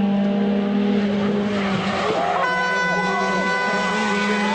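Rally car engine held at high, steady revs during a stage run. A second steady tone joins about two and a half seconds in.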